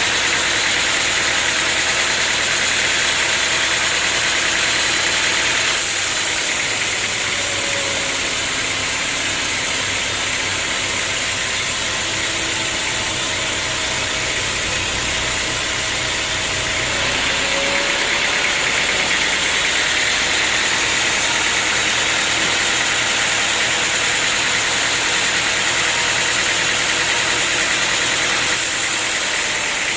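Sawmill machinery running steadily with a constant mechanical hum and hiss; the sound shifts in character about six seconds in and again around seventeen seconds.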